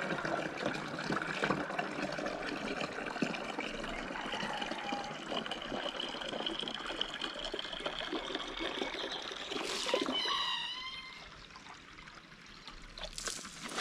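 Steady trickling, splashing water-like noise with thin bird chirps over it. About ten seconds in comes a short run of falling chirps, after which the noise drops away.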